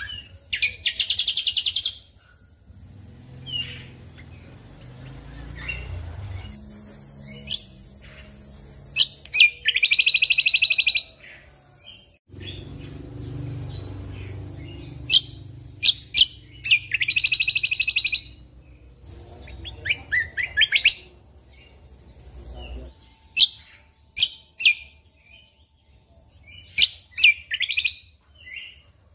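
Cucak kombo (kecial kombok) songbird singing: loud, fast trills repeated about every seven or eight seconds, with sharp high chirps and short notes in between. A low rumble runs under the song through the middle part.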